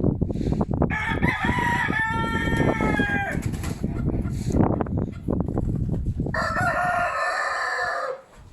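A rooster crowing twice, each crow lasting about two seconds, over a heavy rumble of strong wind on the microphone.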